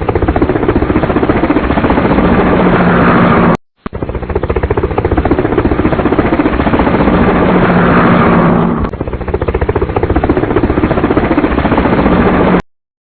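Engine sound effect, a loud rapid chugging that cuts out for a moment about three and a half seconds in, then runs again and stops near the end.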